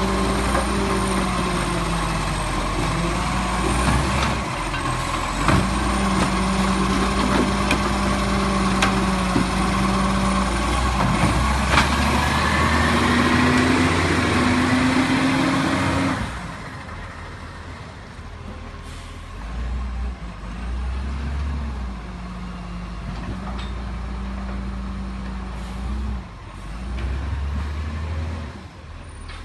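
Garbage truck engine running under load, its pitch rising over a few seconds, then dropping suddenly to a quieter run about sixteen seconds in.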